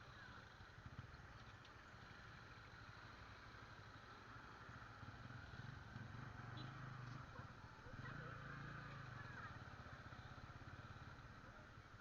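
Faint, low engine hum that swells twice, over a steady chorus of insects.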